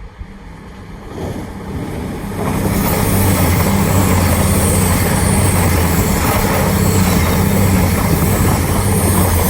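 Two coupled Class 222 Meridian diesel multiple units passing through at speed. A steady low diesel engine drone with rushing wheel and air noise builds over the first couple of seconds, then stays loud and steady.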